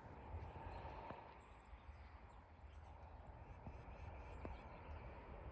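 Near silence: faint outdoor ambience with a low rumble.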